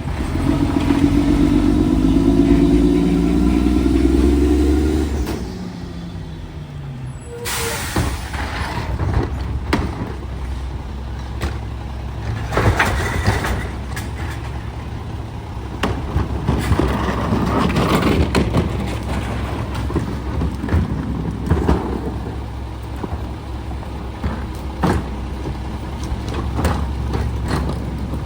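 Garbage truck engine revving up and winding back down over the first five seconds. After an abrupt change about seven seconds in, repeated clanks and knocks sound over a steady low engine rumble.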